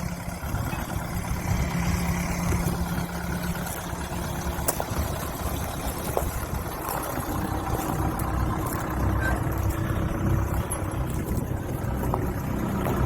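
Backhoe's diesel engine running steadily, a low, even hum with faint rattles.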